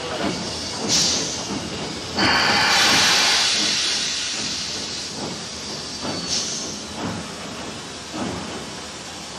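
Steam locomotive working, its exhaust chuffing, with a loud hiss of escaping steam that starts about two seconds in and slowly fades. Shorter spurts of steam come about a second in and again near six seconds.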